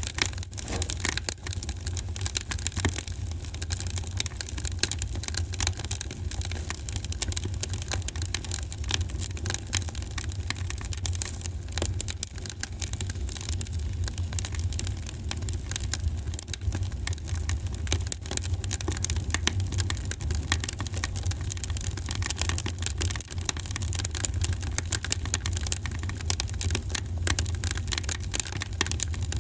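Wood fire in a fireplace crackling and popping continuously: dense, irregular sharp snaps over a steady low rumble.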